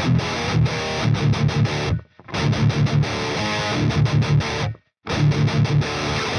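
Epiphone Widow Les Paul Custom electric guitar playing a rhythmic riff of rapid, repeated low notes. The riff stops dead twice, about two seconds in and just before five seconds in, then resumes.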